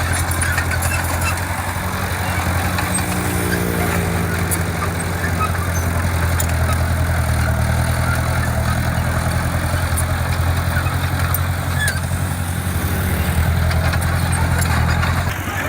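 A heavy construction machine's diesel engine running steadily with a low, even hum. A faint rising-and-falling tone comes in a few seconds in. The sound changes abruptly just before the end.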